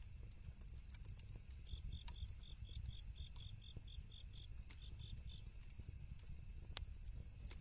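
Campfire crackling, with scattered sharp pops over a low rumble. Crickets chirp along with it, and from about two to five seconds in there is a run of evenly spaced chirps, about four a second.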